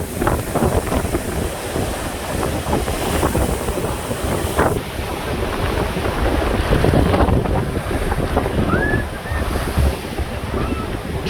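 Heavy surf breaking in surges, with wind buffeting the microphone: a rough sea stirred up by a typhoon.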